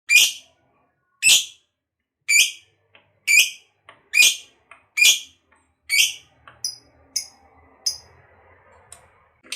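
A lovebird giving a series of short, high-pitched calls about once a second: seven loud ones, then three fainter, shorter ones near the end.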